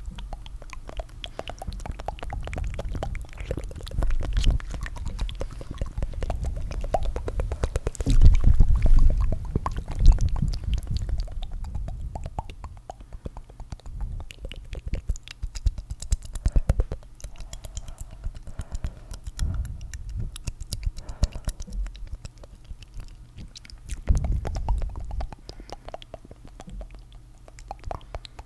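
Layered ASMR tongue fluttering: rapid wet clicking and flapping mouth sounds, several tracks overlaid, swelling louder with a low rumble about a third of the way in.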